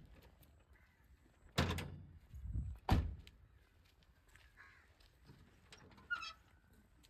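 Maruti 800 bonnet being opened: two sharp clunks about a second apart, with a softer thud between them.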